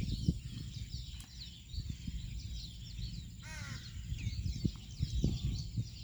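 A single harsh, falling bird call about three and a half seconds in, over constant high chirping in the background. Low knocks and rustling run underneath, loudest near the start and around five seconds in.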